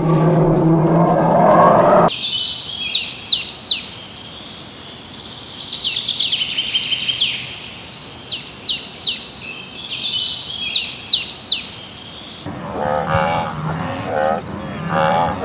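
Small birds chirping in quick runs of high, downward-sweeping notes. A lower animal call is heard before the chirping, and a pulsing animal call begins near the end.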